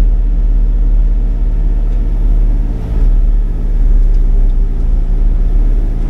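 Sany 35 mini excavator's diesel engine running steadily at working speed with a deep, even rumble, easing briefly about three seconds in.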